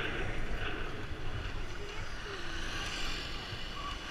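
A vehicle's engine rumbles unevenly under heavy wind noise on the microphone.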